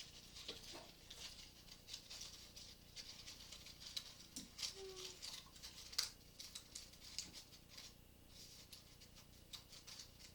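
Faint crackling and rustling of dried leaves being handled and pressed onto cardboard, a run of small irregular ticks with one sharper click about six seconds in.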